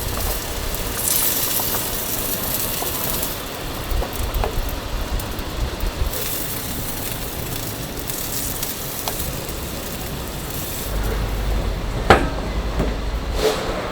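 Chicken legs grilling over a fire: a steady hiss and sizzle with scattered small clicks. A low rumble comes in near the end, with one sharp clack just before it fades.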